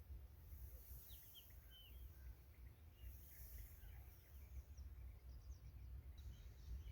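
Faint outdoor ambience: small birds giving short, scattered chirps over a steady low rumble.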